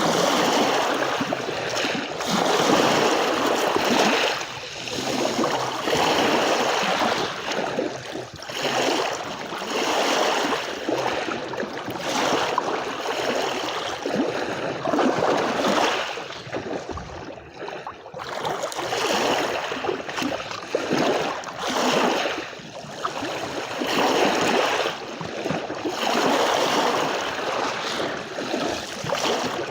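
Sea waves washing onto a beach: a continuous rush of water that swells and falls back every couple of seconds, with a brief lull about two-thirds of the way through.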